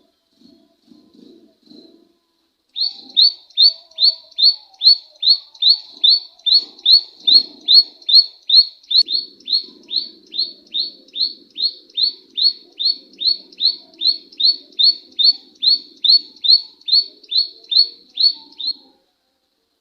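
A small songbird repeating one sharp, downward-sweeping call note about twice a second, in an even, unbroken series for some sixteen seconds that starts about three seconds in.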